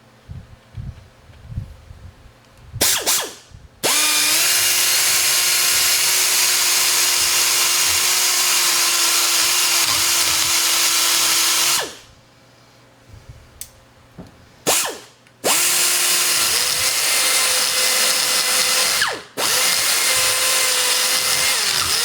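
Rotary grinder spinning a carbide burr to widen the slots in a power-feed mounting bracket, run in several bursts. A brief blip comes first, then a long run of about eight seconds, then a short blip and two more long runs near the end. Each run spins up and winds down with a steady whine and a loud hiss, and the pitch sags briefly once under cutting load.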